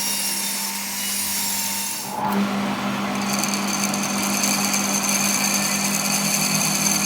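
A power tool or machine tool running steadily with a constant hum. About two seconds in there is a brief scrape, and then a high whine joins the sound.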